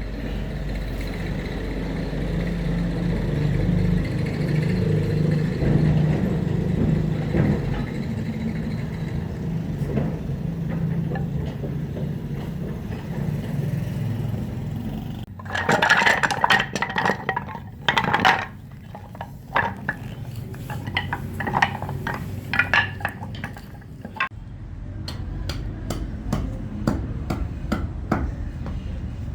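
A steady motor or engine hum for about the first half, then repeated bursts of sharp metallic clinking and tapping in short clusters.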